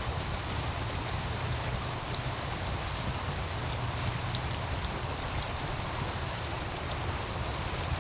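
Wood fire crackling with scattered sharp pops, the loudest about five and a half seconds in, over the steady rush of a meltwater stream and a low rumble.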